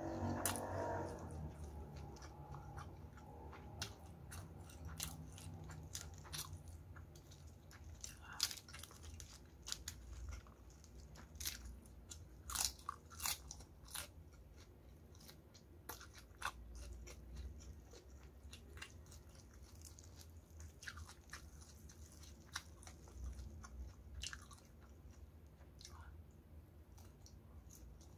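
Close-up chewing and biting of crispy battered fried chicken (ayam geprek): irregular crunches and crackles of the fried flour crust with wet mouth clicks, thickest around the middle.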